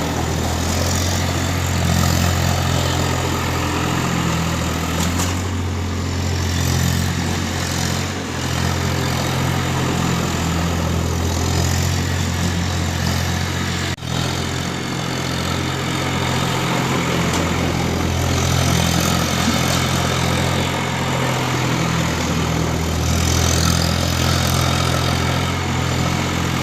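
Tractor diesel engine running continuously, its drone rising and easing several times as the load changes, with a brief sharp break about halfway through.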